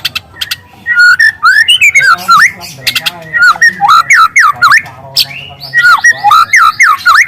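A juvenile white-rumped shama sings loud, fast whistled phrases with quick up-and-down glides, including canary-like rapid runs. The song starts about a second in and breaks off briefly around the middle.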